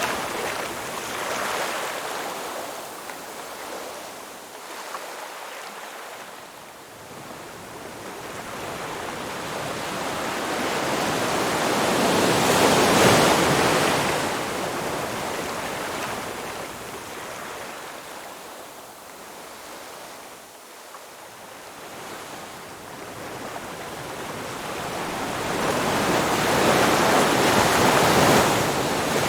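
Ocean surf: waves breaking and washing up the shore in a steady hiss that swells and fades twice, loudest about halfway through and again near the end.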